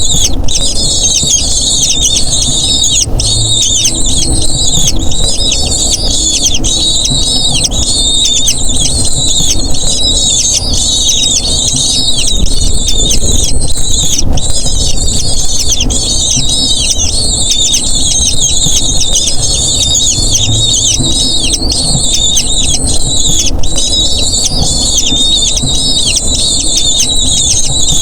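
Birds calling: dense, high-pitched squealing calls overlap without a break over a steady low rumble.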